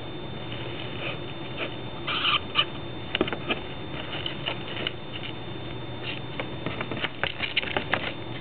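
Cockatiels moving about inside a nest box: light scratching and clicking, with a few short chirps.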